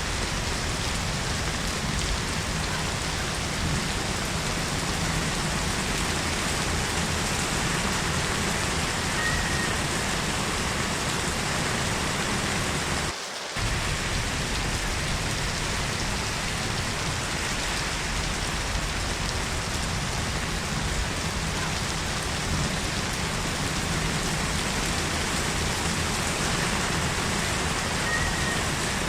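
Steady rain falling and pattering on surfaces, an even continuous hiss. The sound briefly drops out for a fraction of a second about halfway through.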